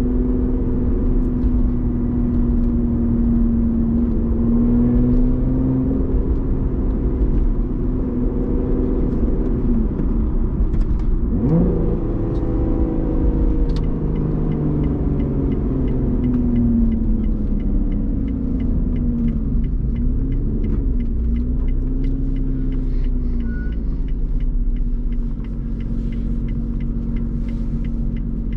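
Lotus Evora GT's supercharged 3.5-litre V6 running through a titanium exhaust while driving on the street, its pitch holding, easing off and rising again with the throttle. About eleven seconds in the revs drop and then climb steeply.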